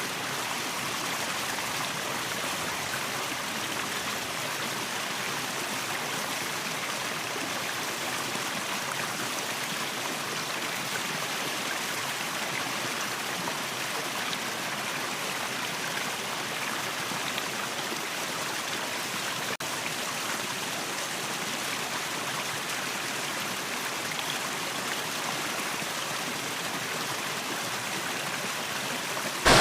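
Waterfall and stream water rushing in a steady, unbroken hiss.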